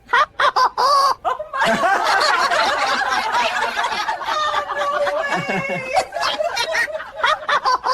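People laughing hard at a joke: a few quick bursts of laughter, then a long, high, wavering laugh.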